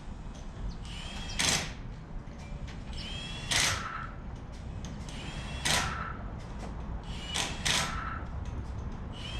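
Hand wrench working engine bolts in turn: a short, sharp metallic click with a brief ringing about every two seconds, two close together near the end.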